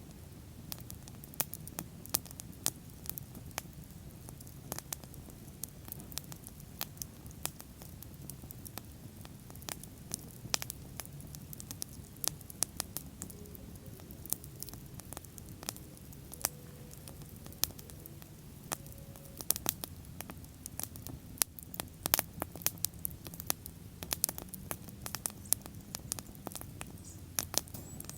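Wood bonfire burning, with irregular sharp crackles and pops over a low steady rumble of the flames; the crackling grows busier in the last few seconds.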